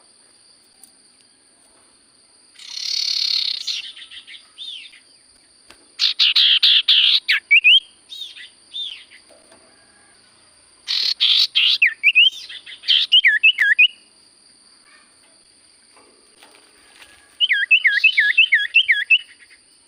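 Cipoh (common iora) singing in four bursts, each a rapid chattering run followed by quick looping whistled notes, with pauses of a few seconds between them. A faint steady high tone runs underneath.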